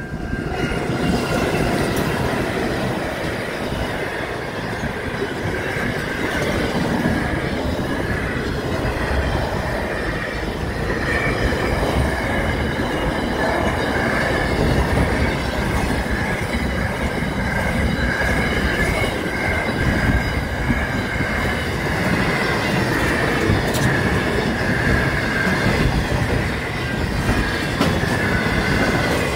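Pacific National intermodal freight train rolling past at a level crossing: a steady rumble of container wagons, wheel clatter on the rails, and a high wavering squeal from the wheels.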